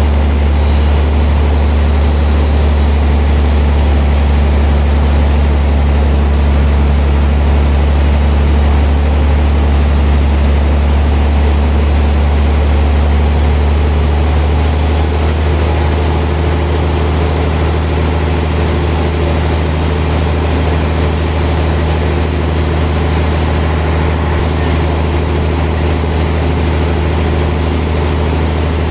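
Sawmill machinery running steadily with a loud, low drone, its level easing slightly about halfway through.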